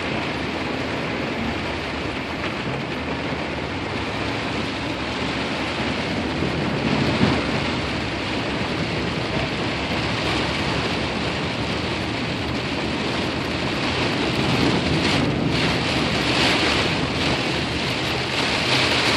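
Steady rushing water noise inside a car driving through flooded streets, its tyres pushing through standing water.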